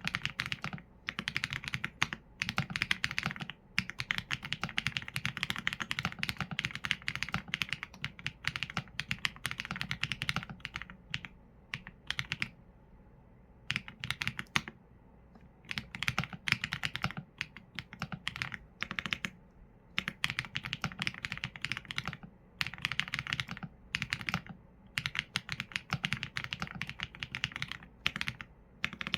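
Typing on a Qsenn A75 mechanical keyboard with Leobog Graywood V4 linear switches and PBT keycaps: quick runs of keystrokes with short pauses between them, each press a clack with a low thock underneath.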